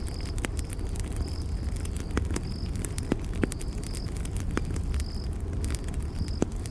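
Campfire burning with a steady low rumble and many sharp crackles and pops. Over it, a cricket gives short high chirps about once a second.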